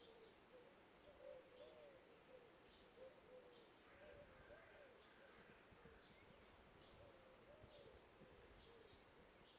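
Faint woodland birdsong: many short, low whistled notes that rise and fall, with short high chirps repeating over them.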